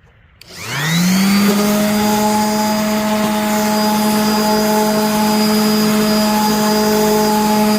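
Small electric motor of a power tool spinning up, its pitch rising for about a second and a half, then running steadily with a hum and hiss until it cuts off suddenly.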